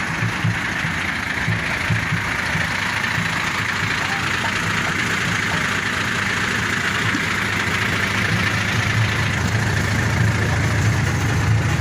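Hino RK8 bus's diesel engine running steadily at idle, a low rumble under a constant hiss.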